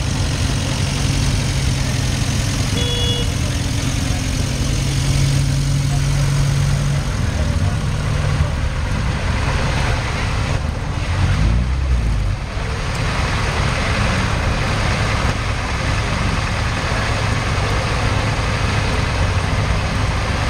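Car engines running with a steady low drone, and one engine's pitch sliding up and down briefly about halfway through.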